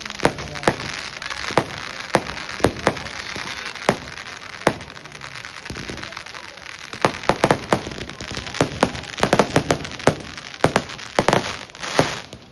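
Fireworks going off: a string of irregular sharp bangs and crackles with a hiss between them, coming thick and fast in the second half.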